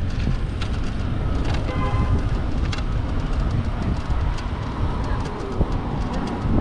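Wind rushing over the microphone and city street traffic noise while riding an electric moped, with scattered clicks and a brief high tone about two seconds in.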